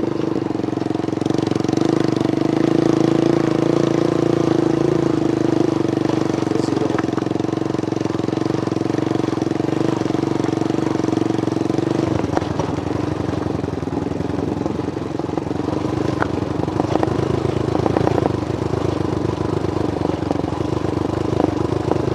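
Motorcycle engine running with a steady drone. About halfway through it turns rougher, with a fast pulsing.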